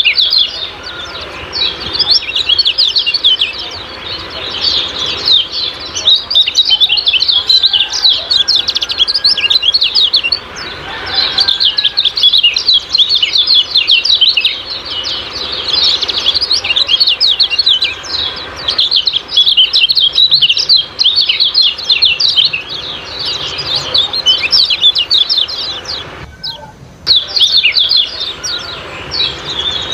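Kecial kuning bird giving its rapid 'ciak-ciak' chirping calls, a dense, continuous string of high chirps with a brief pause about 26 seconds in.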